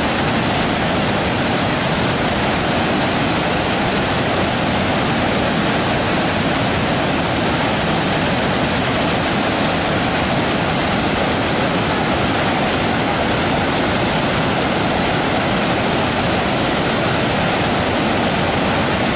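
Waterfall water rushing over rocks in a loud, steady roar that does not change.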